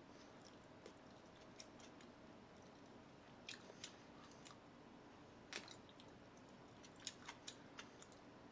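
Quiet, scattered crisp clicks and smacks of someone chewing food, coming in small clusters.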